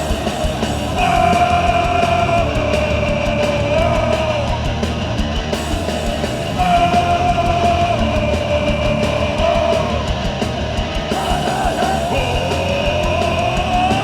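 Hardcore punk band playing live and loud, with distorted rock instrumentation and shouted vocals.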